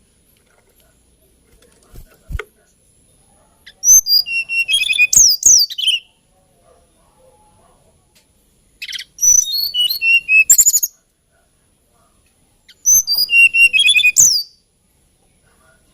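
Hill blue flycatcher singing three short phrases of rapid, varied whistled notes with sweeping glides, each about two seconds long, with pauses of a few seconds between them. A soft knock comes about two seconds in.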